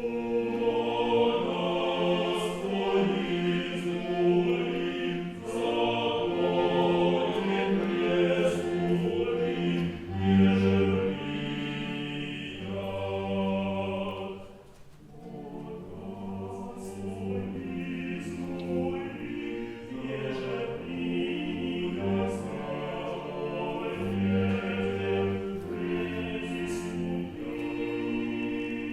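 A choir singing Old Russian music, several voices together in sustained, changing chords, with a brief pause about halfway through before the singing resumes.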